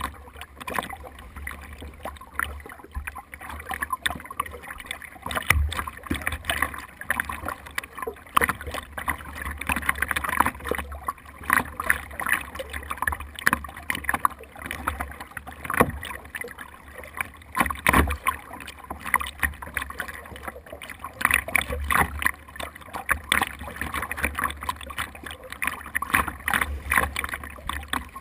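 Water splashing and lapping against the hull of a small boat or kayak as it moves, a busy, irregular crackle of splashes.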